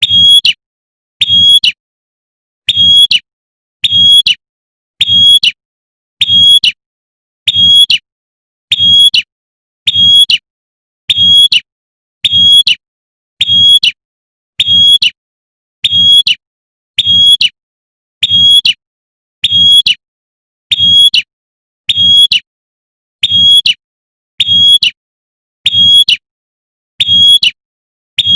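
Female prinia (prenjak) giving its sharp 'tembakan' call, a short high note repeated at an even pace of about one call a second, with silence between the calls.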